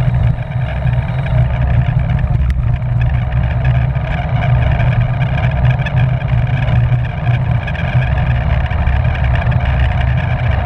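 Steady wind rumble buffeting a bike-mounted action camera's microphone as the rider races in a pack, with the hiss of tyres and drivetrain underneath.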